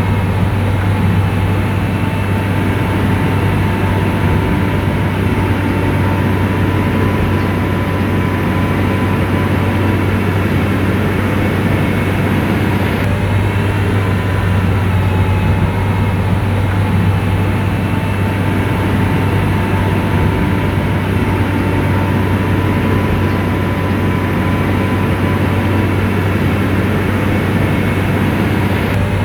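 Komatsu bulldozer's diesel engine running steadily, a deep hum with thin, steady whines above it.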